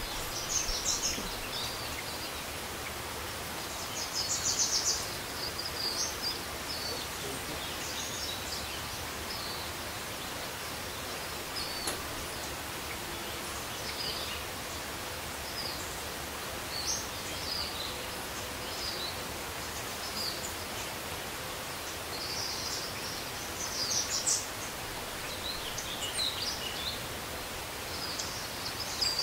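Outdoor ambience: a steady background hiss with scattered short, high-pitched bird chirps, coming in clusters that are loudest about four seconds in and again near the end.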